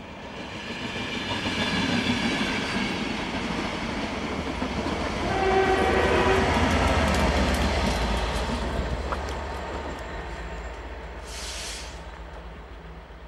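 Class 67 diesel-electric locomotive 67029, with its EMD two-stroke V12 engine, passing at speed with its train. The noise swells to a peak and fades away, a brief horn sounds about five seconds in, and the wheels clatter over rail joints as the train goes by.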